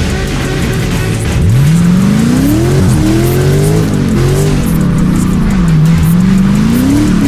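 A car engine revving hard, its pitch climbing sharply about a second and a half in and then swinging up and down several times, while the tyres squeal in a burnout.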